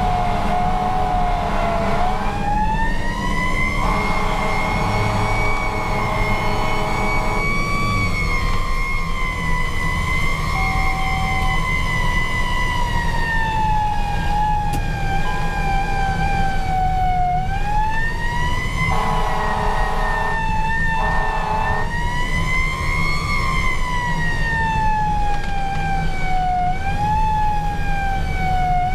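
Fire engine siren wailing, its pitch rising and falling slowly over several seconds. It is broken in several times by steady-pitched blasts, and the 1993 KME Renegade's Cummins 6CTA 8.3 diesel engine rumbles underneath.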